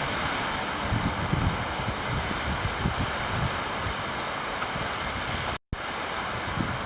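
Heavy rain pouring down in a steady, dense hiss, cut off for a split second about five and a half seconds in.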